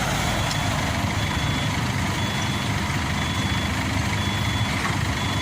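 Reversing alarm beeping steadily, about once a second, over the low rumble of a heavy diesel engine running.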